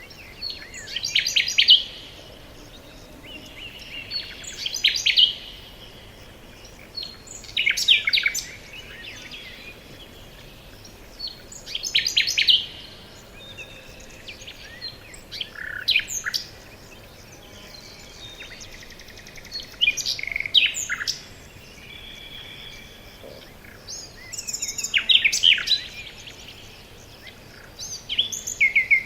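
Forest birdsong: a songbird sings short, rapid phrases of about a second each, repeated every three to four seconds, with fainter chirps in between.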